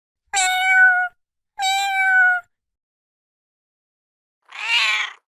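Kitten meowing: two high-pitched meows, each about a second long and falling slightly at the end, then a shorter, rougher call near the end.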